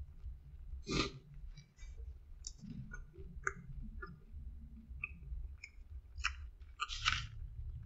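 Chewing pizza crust close to the microphone: scattered small mouth clicks and smacks, with the two strongest about a second in and near the end.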